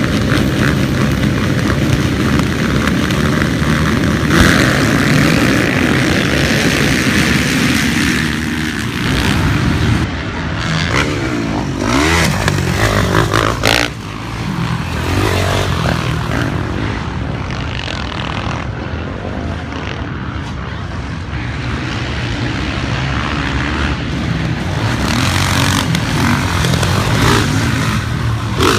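Motocross bikes running on a dirt track, their engines revving up and down as they pass, with several rising and falling glides around the middle.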